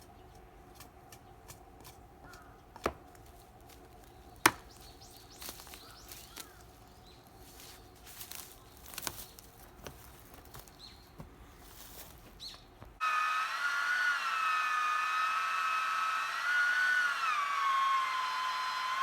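Scattered light clicks and knocks, two of them sharp, a few seconds in. About two-thirds through, a chainsaw cuts in suddenly and loud, running at high revs that rise and fall.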